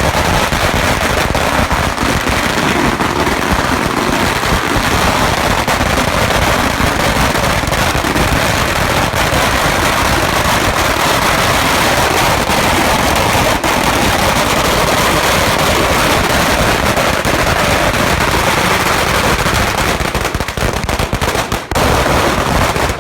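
Firecrackers and bangers going off in a dense, continuous barrage of rapid pops and crackles, many a second, dropping away just at the end.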